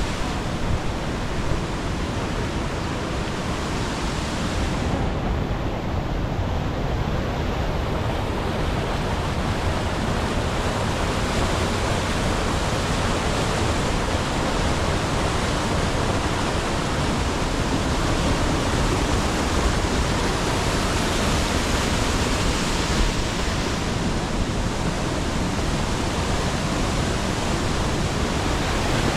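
Steady, loud rush of falling water, an even roar with no break.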